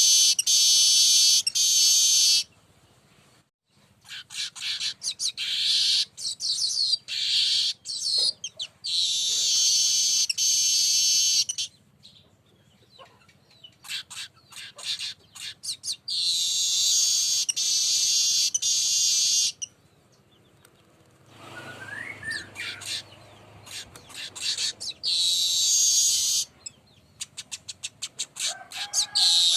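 Weaver bird (manyar) singing: several bursts of high, buzzy chattering song lasting a few seconds each, with rapid ticking notes between them and short pauses.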